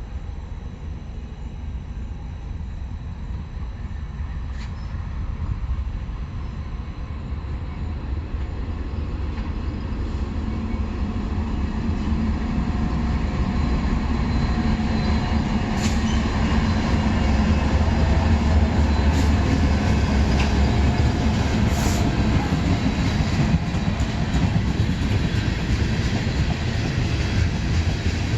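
Train approaching and passing close by, its low rumble growing steadily louder over the first half and staying loud, with a few sharp clicks from the wheels in the second half.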